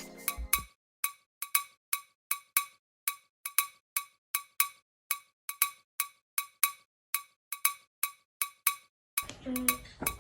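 A rhythmic run of short, bright clinking ticks, about three to four a second, with dead silence between them. The ticks stop about a second before the end, when room noise comes in.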